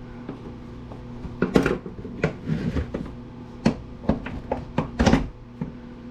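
Irregular knocks and clanks of hand tools working on the housing of a Black & Decker wood planer as it is forced and pried to get it apart, about eight sharp strikes.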